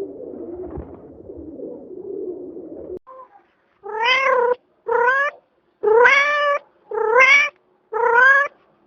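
A domestic cat meowing five times, about once a second, each meow rising in pitch. Before the meows there is a low murmuring sound for about three seconds, which ends abruptly.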